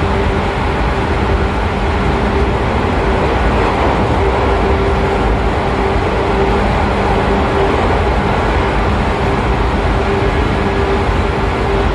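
Onboard running noise of a 113 series 5700-subseries electric train at steady speed: a loud, even rumble of wheels and DT21B bogies on the rails with a steady hum from its MT54 DC series-wound traction motors and gears.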